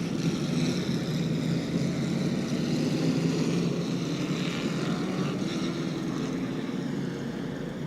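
A field of Super Truck race trucks circling at pace-lap speed under caution, their engines making a steady drone that slowly fades.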